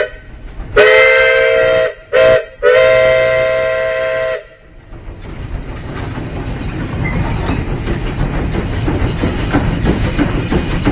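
Steam locomotive whistle sounding a chord of several steady tones: a long blast, a short one and a long one, the end of a grade-crossing signal. After that the locomotive's running noise goes on steadily and slowly grows louder.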